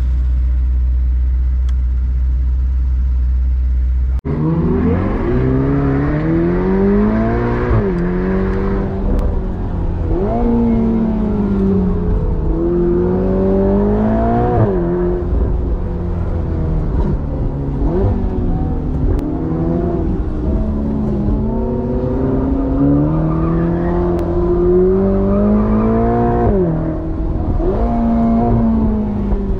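Ferrari Portofino's twin-turbo V8 heard from the open cabin: a steady low drone at first, then, after an abrupt change about four seconds in, the engine accelerating on track, its pitch climbing and dropping back sharply at each gear change several times.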